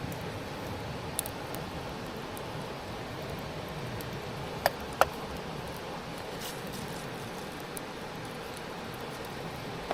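Steady outdoor background hiss with a few sharp clicks, one about a second in and two close together about halfway through.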